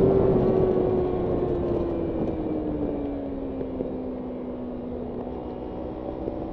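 Kawasaki Ninja 300's parallel-twin engine on the move, its revs falling slowly over about five seconds as the throttle is rolled off and the note grows quieter, then holding steady near the end.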